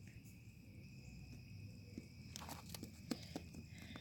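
Faint taps and rustles, a few soft clicks clustered past the middle, over a steady faint high hum: plastic toy figurines being moved by hand.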